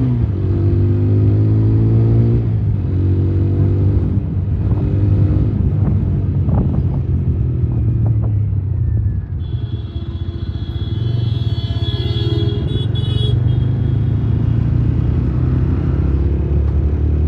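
Motorcycle engine running under way, with a heavy low rumble and an engine note that rises and falls with the throttle. A high-pitched tone sounds for about three seconds past the middle.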